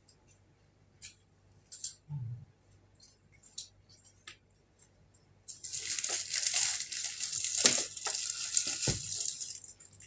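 A few scattered light clicks, then from about five seconds in some four seconds of loud crinkling and rustling with a couple of knocks in it.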